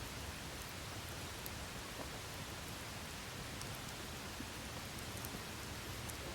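Wood campfire burning with a steady hiss and a few small, sharp crackles scattered through.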